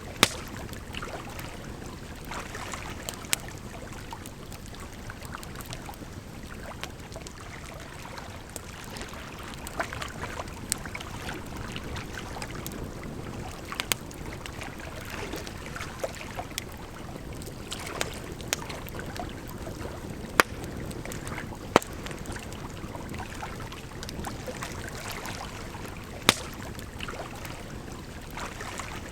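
Wood fire crackling, with sharp irregular pops every few seconds, over a steady rush of flowing water.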